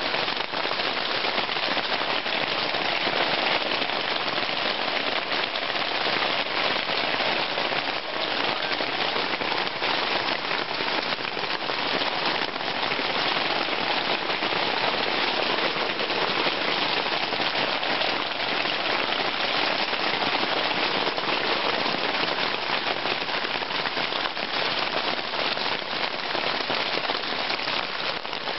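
Steady rain falling on a tent, heard from inside the tent: a dense, even hiss of countless drops striking the fabric.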